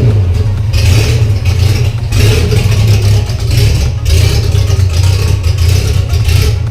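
Holden Gemini's freshly rebuilt G161 four-cylinder engine running with no exhaust fitted, loud and open. Its idle is lumpy from a hotter cam, the note surging in a regular pattern about once a second.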